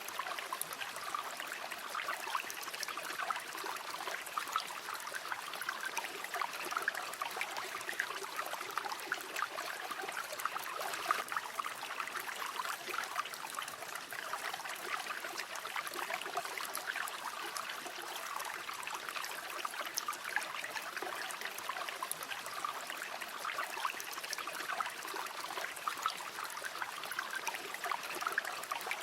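River water flowing steadily, a continuous babbling rush with many small splashes.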